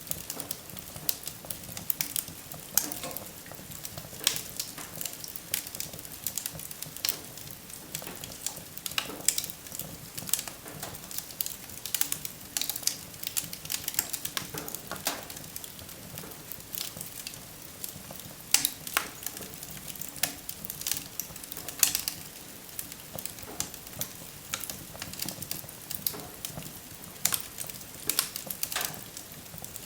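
Wood fire burning in a fireplace: frequent irregular crackles and sharp pops over a soft steady hiss of the flames.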